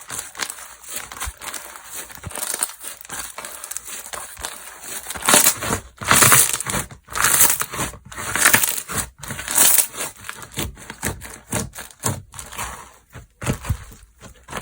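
Slime being squeezed and pressed by hand: a dense run of small crackling clicks, with several louder squishes in the middle.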